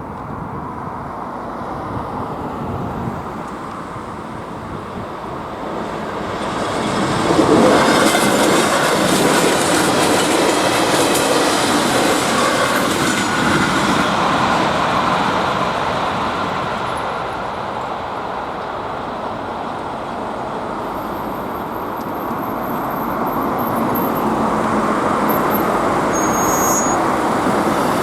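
Passenger train running over a level crossing, wheels rumbling on the rails. It swells about seven seconds in, eases off past the middle, and builds again near the end.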